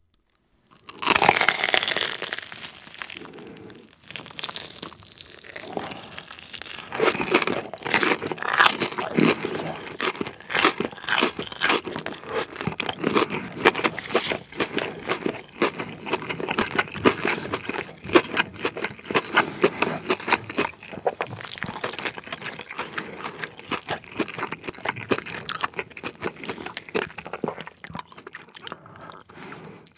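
Close-up biting and chewing of a crispy breadcrumb-coated fried Korean corn dog. One loud crunch of the first bite about a second in is followed by a long run of dense, irregular crunching as the crust is chewed.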